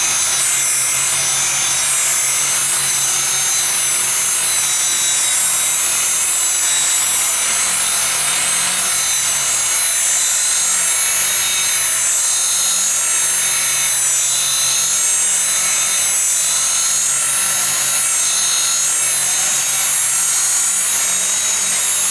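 Handheld buffer running steadily with its pad rubbing over oxidized fiberglass gel coat, a constant hum and high hiss with no pauses, as the chalky surface is cut back to a gloss.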